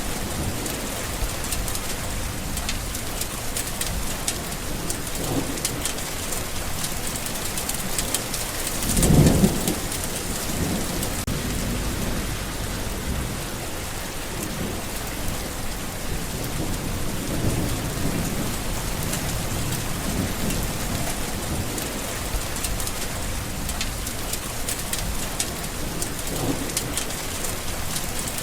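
Steady rain with low rumbles of thunder now and then; the loudest rumble comes about nine seconds in.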